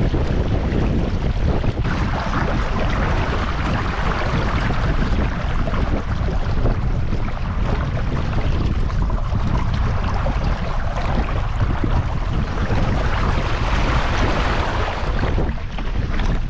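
Wind buffeting the microphone in a steady low rumble, with water rushing along the hull of a Tinker Traveller inflatable sailing dinghy under way. The rush of water swells about two seconds in and again near the end.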